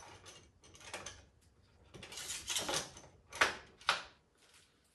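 Hands working on a snowblower: irregular scrapes and rattles of its parts, with two sharp clicks near the end.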